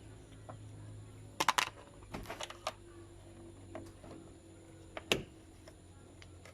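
Plastic clicks and snaps of a fluid reservoir cap being pushed shut: a quick run of three about a second and a half in, a few more just after, and one sharp snap near the end. The cap is stiff to close.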